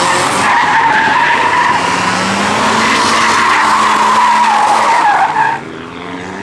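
A car's tyres squealing in one long, wavering screech under engine power, as when drifting or doing a burnout, with the engine running hard underneath. The squeal cuts off abruptly about five and a half seconds in.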